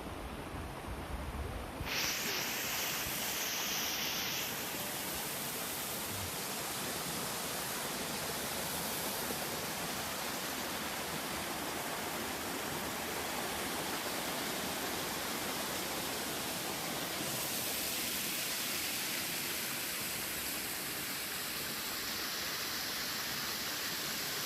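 Steady rush of flowing river water, an even hiss that grows brighter and a little louder about two seconds in.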